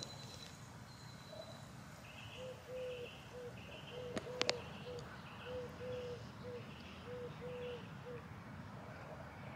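Birds calling outdoors: a run of short, repeated notes lasting several seconds, with a sharp click about halfway through.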